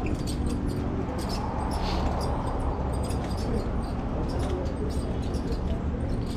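Steady wind and road rumble from riding a fixed-gear bike, with scattered light clicks throughout.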